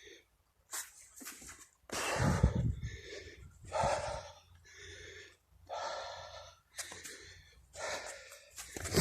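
A runner's heavy breathing, strong gasps and exhales about once a second, with a low rumble from wind or handling on the phone's microphone from about two seconds in.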